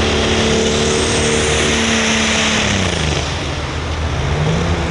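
Light Pro Stock pulling tractor's turbocharged diesel engine running loud at high revs, then dropping in pitch about three seconds in and picking up slightly near the end, as the run is cut short; the tractor is given another attempt.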